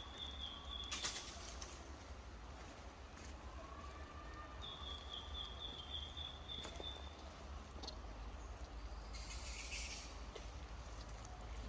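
A small bird sings two high trilled phrases, a short one at the start and a longer one of about two and a half seconds near the middle, over a low outdoor rumble. A sharp tap comes about a second in, and a brief hissing rustle near the end.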